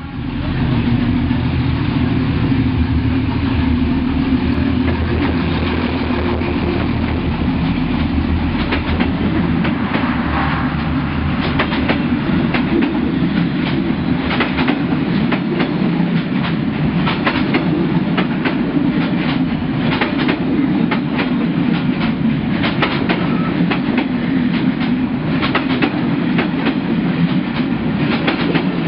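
Passenger train passing at very close range: a steady heavy rumble of the carriages, with the wheels clacking over the rail joints again and again through the second half.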